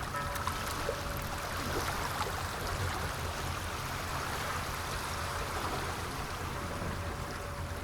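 Sea waves washing continuously: a steady rush of water with a low rumble underneath.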